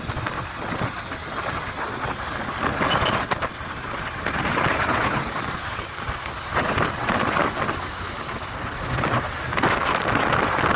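Wind rushing over the microphone of a moving motorcycle, with road and engine noise underneath; the rush swells and eases every few seconds.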